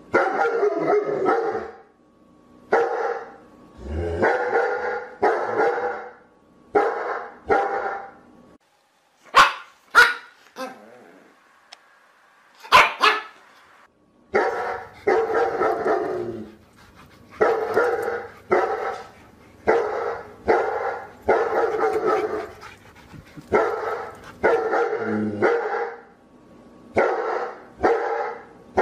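A dog barking over and over in a long series of drawn-out barks, each lasting about a second. The barking pauses briefly about a third of the way in, where a few sharp clicks are heard.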